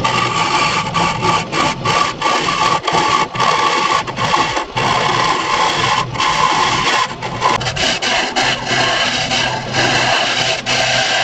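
Wood lathe running with a laminated wood jar blank spinning while it is worked by hand: a steady scraping, rasping sound over the motor's whine, with frequent brief breaks.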